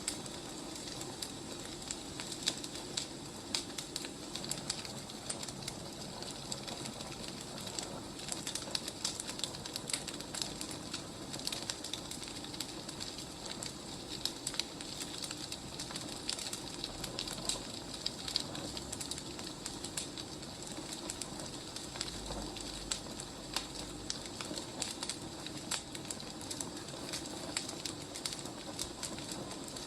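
Wood fire crackling: a steady hiss with many sharp pops and snaps scattered irregularly.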